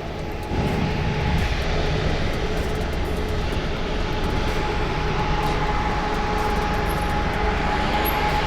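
Steady rushing wind and road noise from riding a bicycle along a road, growing louder about half a second in, with a steady hum running through it.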